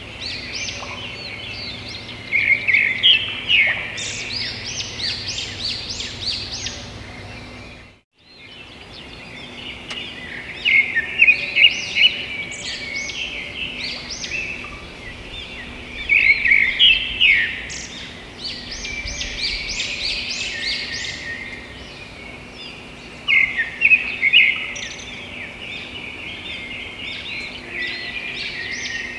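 Birds chirping and twittering, many short calls overlapping without pause. The sound cuts out briefly about eight seconds in, then resumes.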